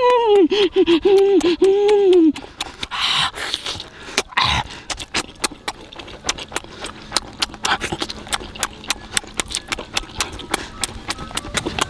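A drawn-out, wavering voiced sound from the man, falling in pitch, for about two seconds, then close-up wet chewing and lip-smacking as he eats cooked shrimp: a dense run of sharp mouth clicks, several a second.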